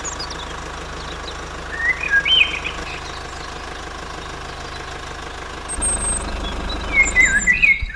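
An engine or motor running steadily, getting louder about six seconds in, with a few short high chirps over it.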